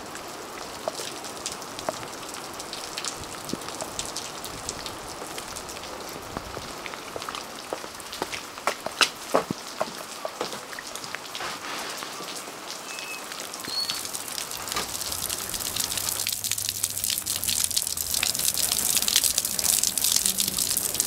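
Rain falling, with many scattered drops ticking sharply on hard surfaces over a steady hiss. About three-quarters of the way through, the sound changes to a brighter, steadier hiss.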